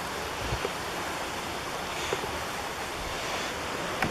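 Steady rushing outdoor noise, with a brief low bump about half a second in.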